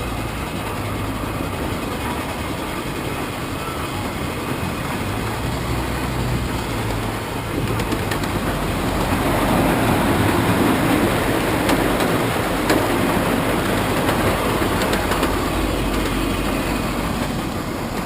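Steam-hauled train rolling along the track: a steady rumble with wheels clicking over rail joints, growing louder about halfway through.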